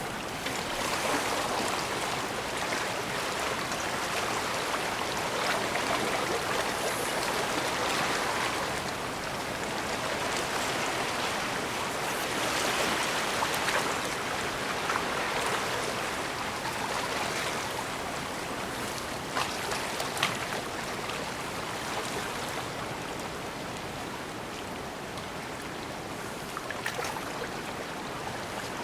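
Bay water washing and lapping at the shore: a steady splashing that swells and eases every few seconds. A few short sharp clicks come about two-thirds of the way in.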